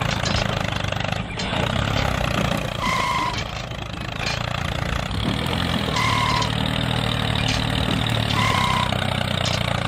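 Miniature model tractor's small engine running steadily as it works the soil with its front blade. Three short, even-pitched high tones come through, at about three, six and eight and a half seconds.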